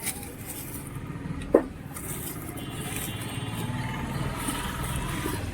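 Street traffic rumbling steadily, with one sharp knock about a second and a half in.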